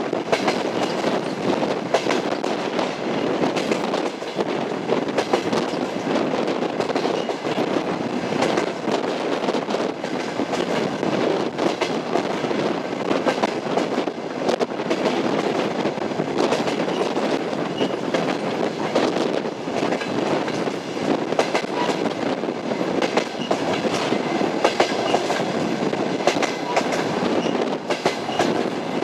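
Train wheels clacking over rail joints, with the steady rumble of a moving railway car and many short sharp clicks.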